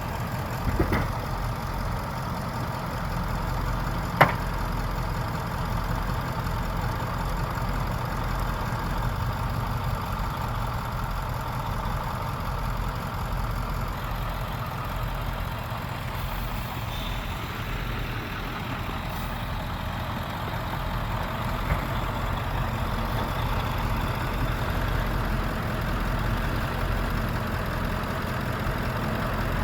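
Truck engine idling steadily, with a short knock about a second in and a sharp click about four seconds in.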